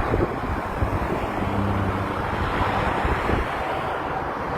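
Road traffic noise with wind buffeting the microphone: a steady rumble of vehicles, with an engine hum standing out briefly around the middle.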